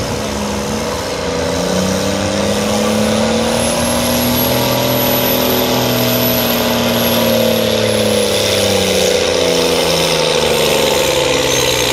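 Cummins turbo diesel in a 1976 Chevy C20 pickup running hard under load in a truck pull. The revs climb for several seconds and then sag as it lugs down, with a high turbo whistle rising and falling along with them. The announcer supposes it was geared one gear too high.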